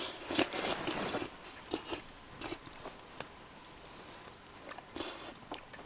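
Someone eating close to the microphone: crunchy bites and chewing, dense in the first couple of seconds, then a few scattered smaller clicks.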